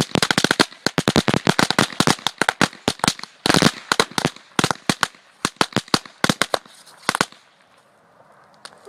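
Firecrackers packed inside a burning computer case going off in a rapid, irregular string of sharp bangs, thick and fast for about seven seconds, then stopping.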